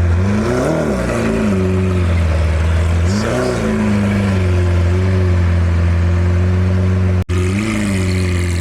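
Lamborghini Aventador SV's V12 through a catless, straight-piped exhaust, idling loudly and blipped three times: quick revs that rise and fall back to idle, about a second in, about three seconds in and near the end.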